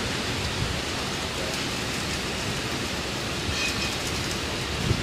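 Steady rain falling in a storm: an even hiss.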